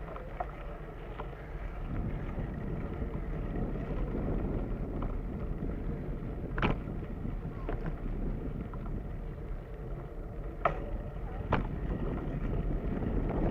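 Bicycle rolling along a dirt trail: steady tyre rumble and rattle, with a few sharp clicks in the second half.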